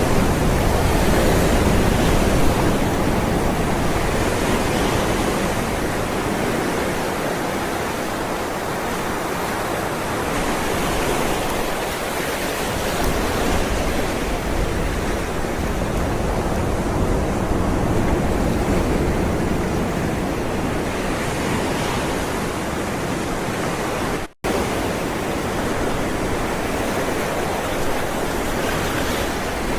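Ocean waves rolling and breaking: a steady rushing wash that swells and eases every few seconds. The sound cuts out completely for a split second about four-fifths of the way through.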